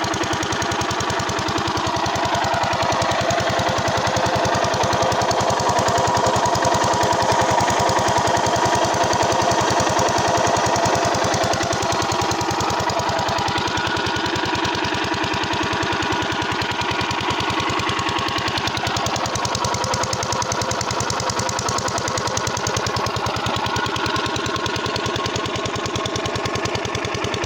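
Old diesel engine running steadily with a fast, even knocking beat.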